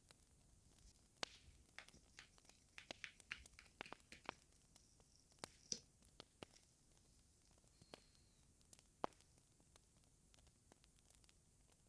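Faint wood fire crackling in a fireplace: irregular sharp snaps and clicks, with a quick cluster in the first few seconds and a few louder single pops later.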